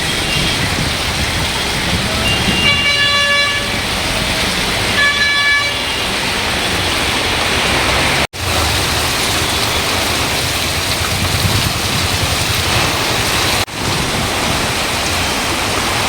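Steady rush of heavy rain and road traffic, with a vehicle horn honking twice, a little under three seconds in and about five seconds in. The sound drops out for an instant twice in the second half.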